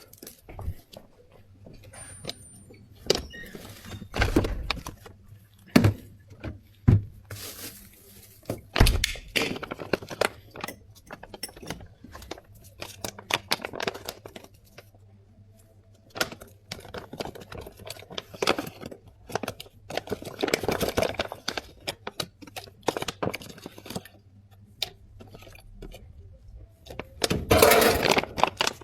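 Drink-making work at a bubble tea shop counter: irregular knocks, clinks and clatter of cups, lids and utensils being handled, with a denser, louder stretch near the end.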